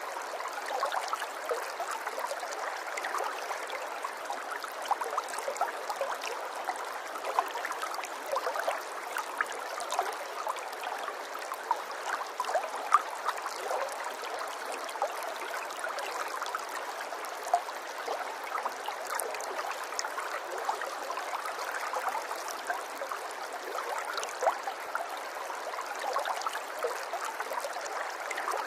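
Flowing water, a steady babbling with many small irregular splashes and plinks, unchanging throughout.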